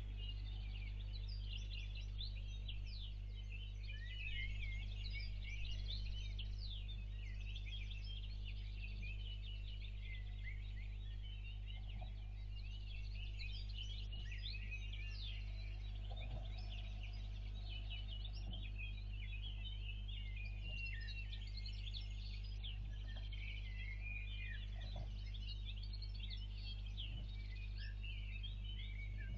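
Dense dawn chorus of many small birds chirping and twittering without pause, over a steady low electrical hum.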